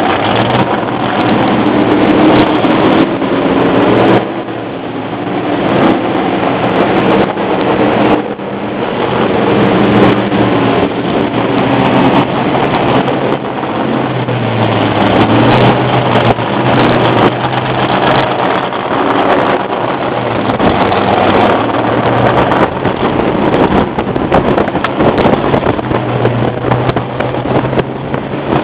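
Loud engine sound from a car driving slowly in a line of vintage NASCAR stock cars, rising and falling with the throttle. The level drops briefly about four seconds in and again about eight seconds in.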